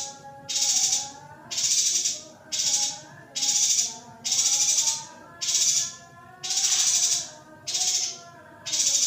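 Female yuhina giving a buzzy, high-pitched call over and over, about once a second, as a masteran track for conditioning a male yuhina.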